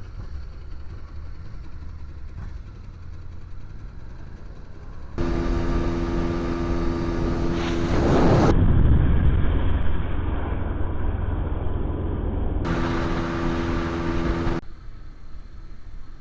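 Motorcycle engines running, with an abrupt jump in loudness about five seconds in. A louder swell that rises and falls, like a bike passing close, comes about eight to ten seconds in.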